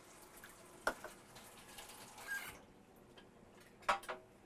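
A whisk stirring gravy in a skillet, faint, with a brief swish and two sharp taps of the utensil against the pan, about a second in and near the end.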